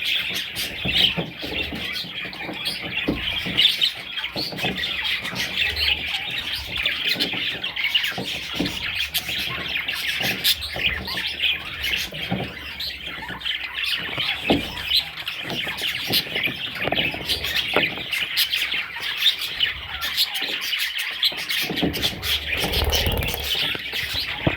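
Budgerigars chirping and chattering continuously, many calls overlapping, with short clicks scattered throughout.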